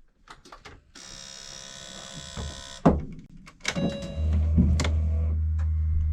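Electrical sounds as a race car is powered up: a whirring electric motor buzzes for about two seconds, a couple of sharp clicks follow, then a steady low hum sets in.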